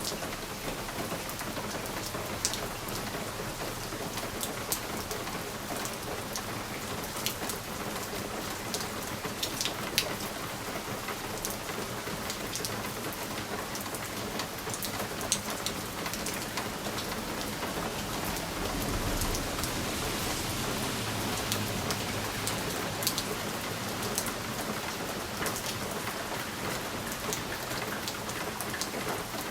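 Steady rain pattering on window glass, with scattered sharper drop taps. A low rumble swells and fades about two-thirds of the way through.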